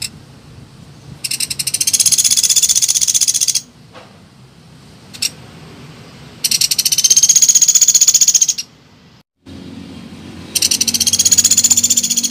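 Woodpecker rattling call, a rapid high-pitched trill of many quick notes, given three times in bursts of about two seconds each, played as a bird-lure recording. Two faint short clicks come between the first two bursts.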